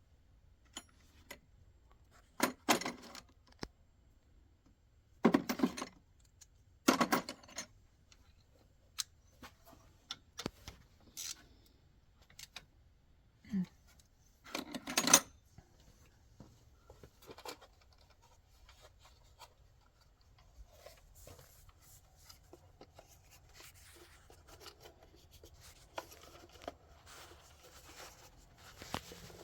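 Metal hand tools and sockets clinking and clattering, with several sharp knocks in the first half and fainter rattling after that.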